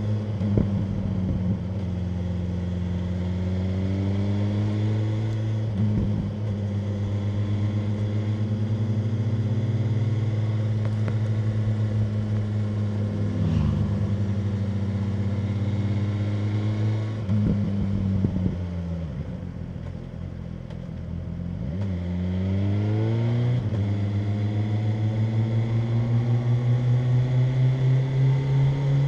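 BMW M1000R Competition's inline-four engine heard on the ride, running at a steady cruise with short shift blips. About two-thirds through the throttle closes and the note drops and quietens, then the revs climb as it accelerates and hold a higher, pulsing note near the end.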